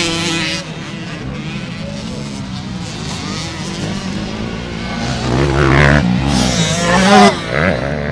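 Motocross dirt bike engines running and revving, the pitch rising and falling, louder in the second half and loudest about seven seconds in.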